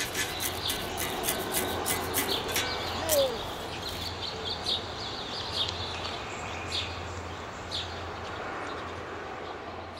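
Birds chirping over a steady outdoor hiss and a low hum, the short chirps coming thick for the first three seconds and more sparsely after, with one falling call about three seconds in.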